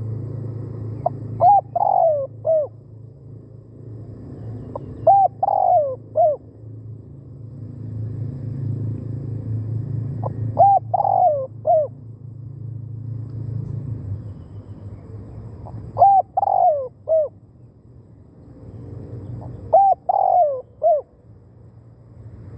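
Spotted dove cooing: a short phrase of a few hooting notes, repeated five times about every four to five seconds. A steady low rumble runs underneath.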